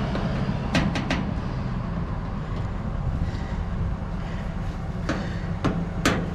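A clothes dryer's metal cabinet knocking and clunking as it is lifted and shifted by hand: three sharp knocks close together about a second in, then three more near the end, the last the loudest, over a steady low rumble.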